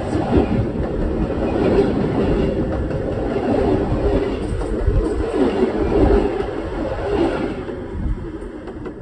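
Railway cars rolling directly over the track, their steel wheels running on the rails with a loud, steady rumble. The noise eases off about eight seconds in as the last car clears.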